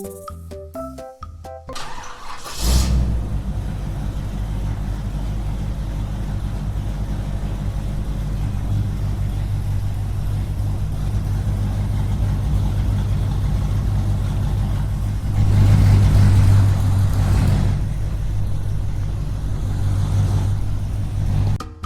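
A motor starts about three seconds in and runs steadily with a low, fluttering hum. It grows louder for a couple of seconds near the end, then stops as music resumes.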